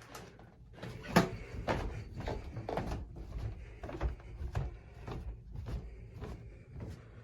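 A run of irregular knocks and clicks from objects being handled, about two a second, the loudest about a second in, over a low steady hum.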